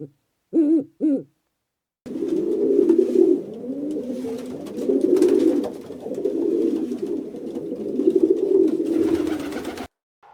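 Two short calls at the very start. Then, after a brief gap, a long stretch of low, wavering, overlapping cooing from several birds, which stops shortly before the end.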